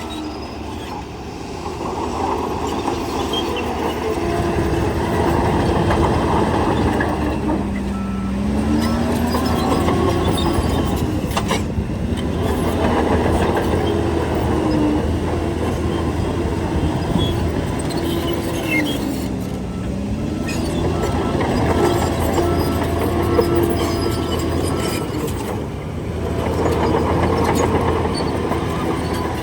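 Crawler bulldozer's diesel engine working under load, its pitch sagging twice, around eight and twenty seconds in, and climbing back as it lugs and recovers.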